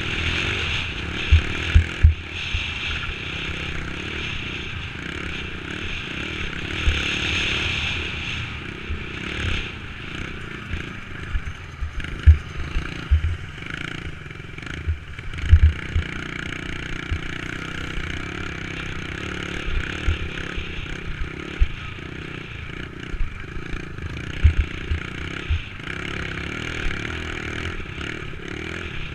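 Dirt bike engine running steadily under way on a trail, with frequent short low thumps and rattles from the ride over rough ground.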